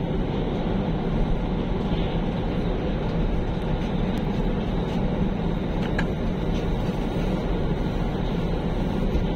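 Passenger train running at speed, heard from inside the car: a steady low rumble of wheels on the rails.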